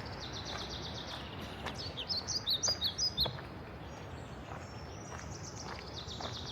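Songbird singing: a high trilling phrase near the start, then a run of sharp repeated chirps about two to three seconds in, over a steady rush of flowing meltwater, with occasional footstep clicks.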